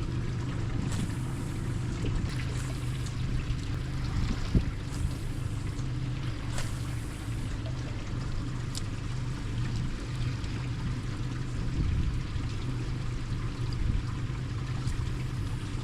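Steady low hum of a boat's motor running, with water sloshing and trickling around the hull and a few brief scratchy noises.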